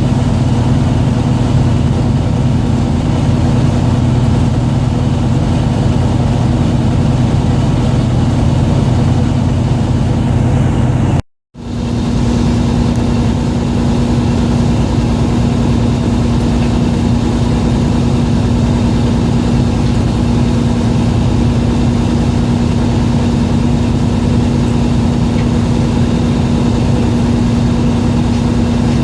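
Fishing boat's engine running with a steady drone. About eleven seconds in the sound cuts out for a moment, then returns as a steadier, higher hum.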